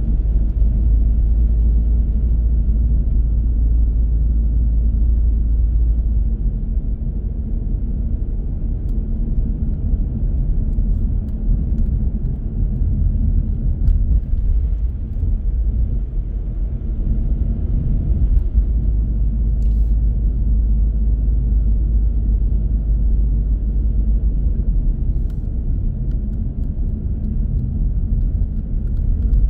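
Car driving along at a steady speed: a steady low rumble of engine and tyres on the road, with a couple of faint ticks.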